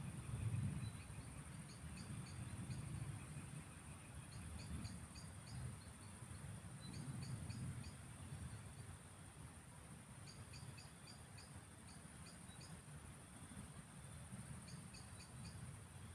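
Countryside evening ambience. Insects chirr in a steady high drone, and short clusters of high chirps repeat every two to three seconds over a faint low rumble.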